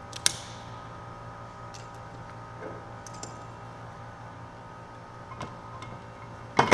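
Metal parts clinking and knocking as a differential carrier on setup bearings is handled and set into a Salisbury rear axle housing: a few sharp clicks spread through, then a louder clunk with a brief ring near the end. A steady shop hum runs underneath.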